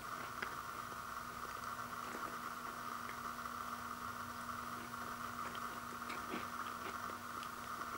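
Faint scattered crackles and clicks of a crisp toasted frosted toaster pastry being broken and chewed, over a steady hiss and a faint low hum.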